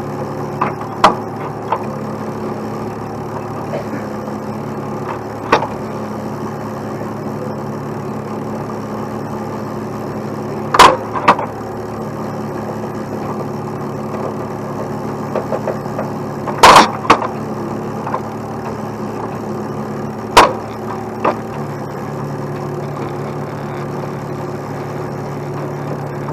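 Heavy truck diesel engine idling steadily, with sharp knocks from the rigging and load at irregular moments, the loudest a double knock about two-thirds of the way through.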